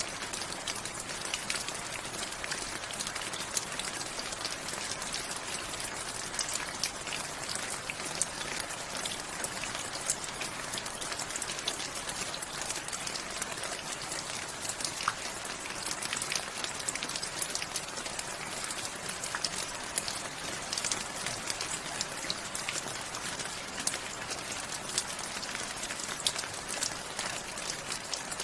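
Steady rainfall, with an even hiss and many individual drops pattering and ticking on a surface.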